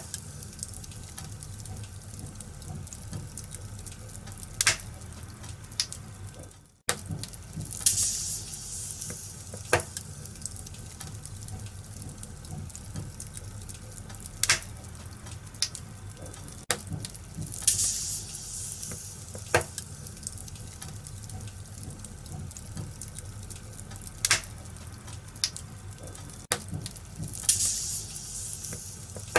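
Wood fire in a fireplace crackling: a steady hiss with sharp pops every second or few. The sound cuts out for an instant about seven seconds in.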